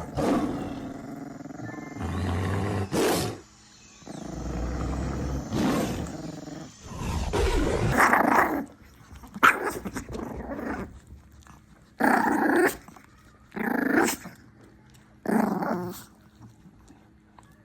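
Two Chihuahuas growling at each other over food, in repeated bouts, with several short, sharp outbursts in the second half.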